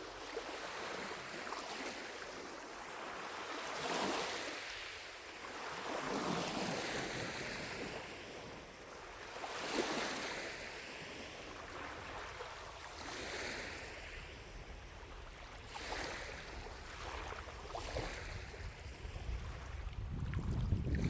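Small lake waves lapping at the shore, one soft wash every two to three seconds. A low wind rumble on the microphone rises near the end.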